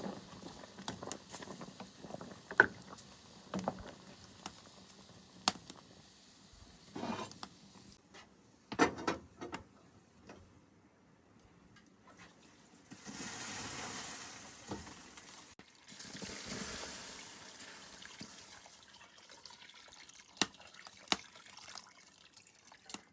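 Liquid being poured twice, each pour about two seconds long, after a run of scattered clicks and knocks.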